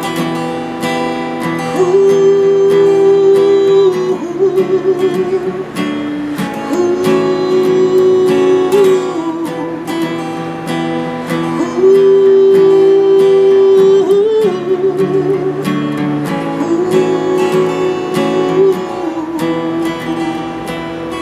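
Acoustic guitar strumming the outro of a folk song under a wordless sung melody: four long held notes, each ending in a wavering vibrato.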